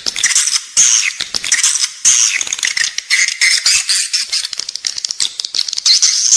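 Edible-nest swiftlets twittering in a dense, rapid stream of high chirps, short trills and rattling clicks. It is a recorded lure call of the kind played inside a swiftlet nesting house to draw the birds in to roost and nest.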